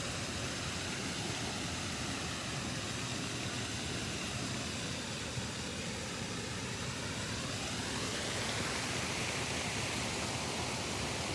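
Creek water rushing steadily over rocks, a constant even wash of noise.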